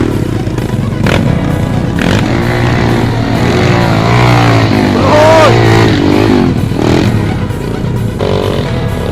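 Trail motorcycle engine revving, its pitch rising and falling repeatedly under throttle, with a strong rev about halfway through.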